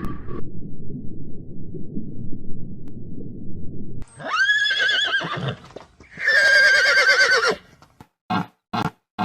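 A low rumble for the first few seconds, then a horse whinnying twice, each call wavering in pitch, followed near the end by short evenly spaced beats about two a second.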